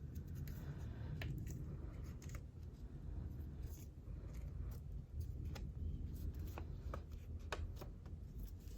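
Quiet handling of paper-craft materials on a desk: soft paper rustles and scattered light clicks over a steady low hum.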